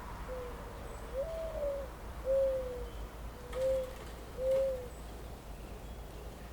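A bird calling in five low, smooth notes spread over about five seconds, the second note the longest and highest, over a faint steady background hiss.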